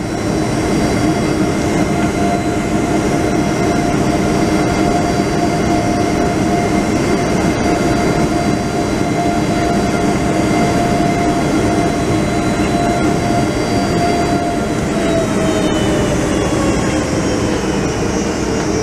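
Cabin roar and whine of a Boeing 757-200's Rolls-Royce RB211 jet engines, steady at first; about three-quarters of the way through, the whine tones start dropping in pitch as the engines spool down.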